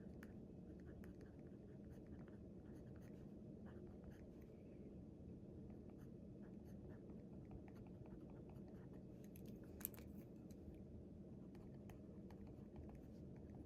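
Faint scratching of writing on paper, in short irregular strokes over a low room hum, with one sharper tap about ten seconds in.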